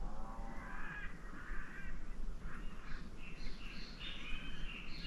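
Wild birds calling, a quick string of short overlapping calls that grows busier after about two seconds.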